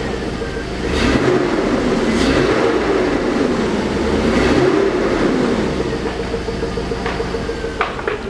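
Chevrolet Tahoe's 5.3-litre L59 V8 running at its first start after sitting for months. It is revved up and let back down twice, then settles to a steady idle.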